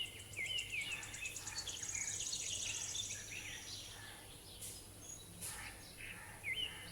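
Small birds chirping outdoors in repeated short rising-and-falling calls, with a rapid high buzzing trill in the first half.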